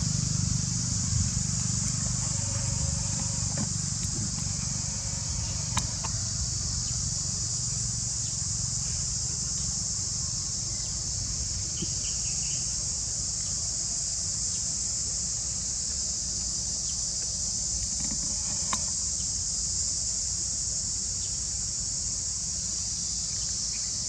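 A steady, high-pitched chorus of insects, with a low rumble underneath and a few faint clicks.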